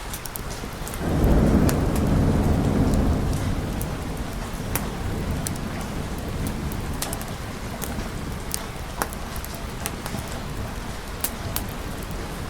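Steady rain with a roll of thunder that swells about a second in and fades away over the next few seconds, and scattered sharp clicks throughout.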